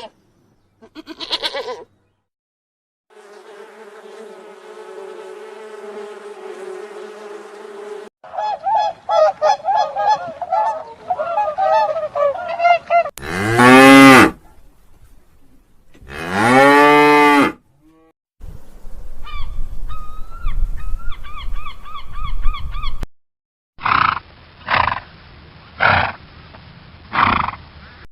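A string of separate animal calls, cut one after another with short silent gaps, among them cattle mooing. The loudest are two long calls that rise and fall in pitch, about 13 and 16 seconds in, and four short calls follow near the end.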